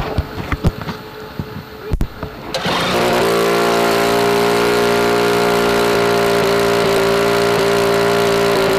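RQ-7 Shadow drone's engine starting: a few clicks and knocks, then about two and a half seconds in the engine catches and runs loud and steady.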